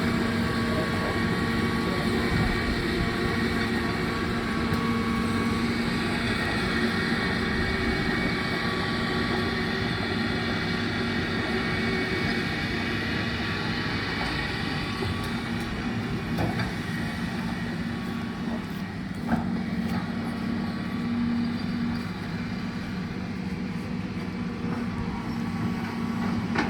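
Heavy diesel engine of construction machinery running steadily under work, easing off somewhat in the second half, with a single short knock about two-thirds of the way through.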